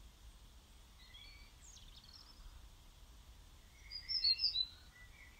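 Small birds singing: a few faint high chirps, then a louder short burst of high chirps about four seconds in.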